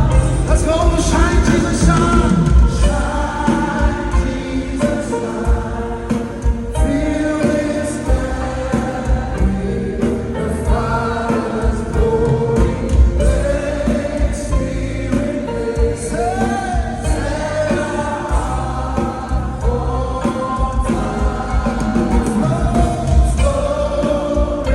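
Gospel worship song: a choir singing over a band with strong bass and a steady beat.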